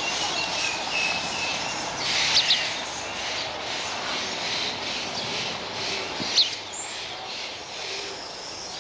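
Birds chirping over a steady hiss of outdoor background noise, with a few short, sharp high chirps: two close together about two seconds in and another about six seconds in.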